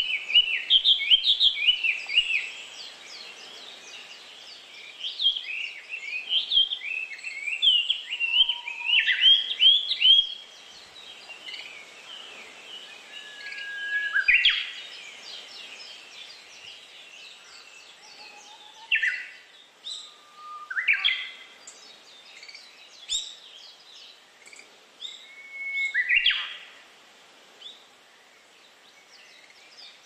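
Woodland songbirds singing and chirping: a dense run of quick, high chirps through the first ten seconds, then scattered single calls and a few sharp whistled sweeps, over a faint steady background.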